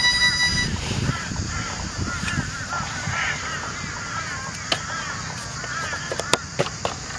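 A flock of birds calling, with many short calls repeating over and over. A short steady electronic beep sounds at the start, and a few sharp clicks come near the end.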